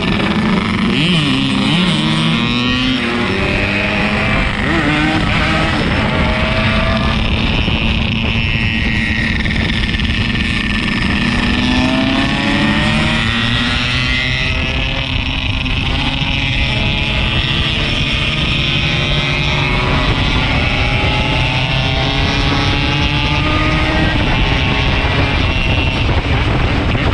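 Yamaha RX-King's 135 cc two-stroke single-cylinder engine running on the move, its pitch rising and falling repeatedly as the rider works the throttle and gears, over a steady rush of wind and road noise.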